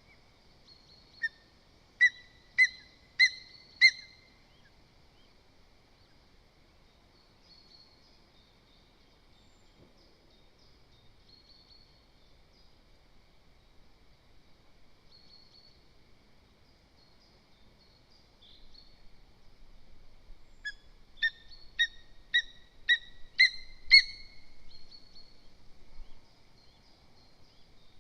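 Lesser spotted eagle giving a series of sharp, high-pitched yelping calls, about five evenly spaced notes a little after the start, then a longer run of about eight notes around twenty seconds in. Faint small-bird chirps are heard in between.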